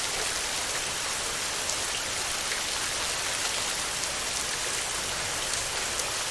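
Heavy rain falling steadily on a metal roof: a dense, even hiss with faint scattered drop ticks.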